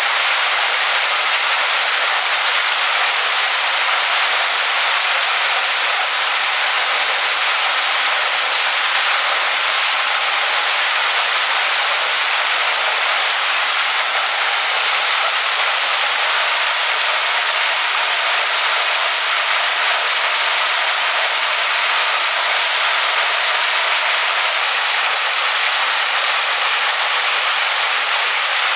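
Waterfall pouring onto rocks: a loud, steady rush of falling water, even throughout with no low rumble.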